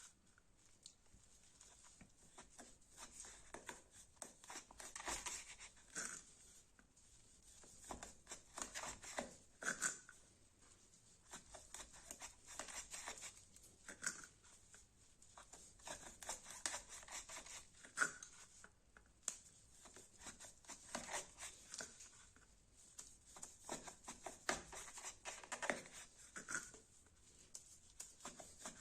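Fixed-blade knife cutting in repeated short strokes, a scraping, tearing sound in clusters every second or two, with an occasional sharper click.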